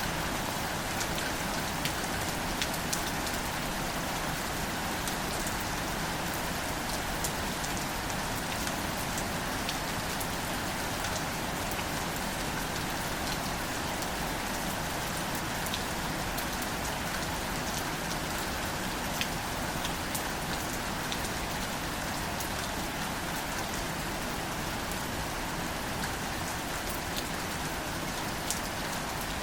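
Gentle, steady rain falling on wildflowers and leaves: an even hiss dotted with many fine drop ticks.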